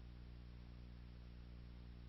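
Near silence: a faint steady low electrical hum with a soft hiss, no other sound.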